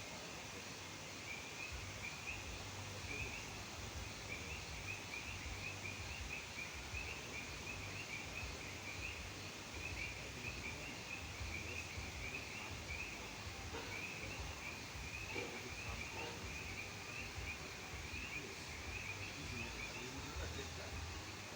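A chorus of frogs calling, a dense steady stream of short high chirps overlapping one another, with a low rumble underneath.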